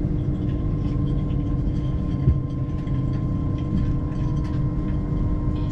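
Train running, heard from inside a passenger carriage: a steady low rumble with a steady whine over it, and a single knock a little over two seconds in.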